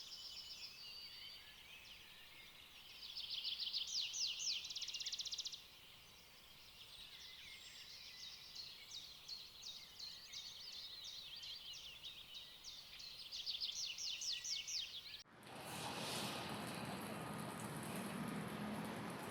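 Songbirds singing, with repeated chirps and two bursts of fast trills. Near the end the birdsong gives way abruptly to a steady hiss.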